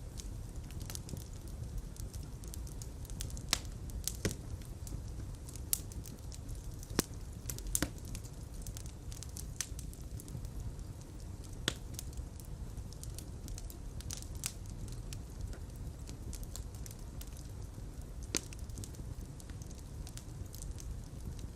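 Fire crackling in a fireplace: a steady low rumble of flames with sharp pops at irregular intervals.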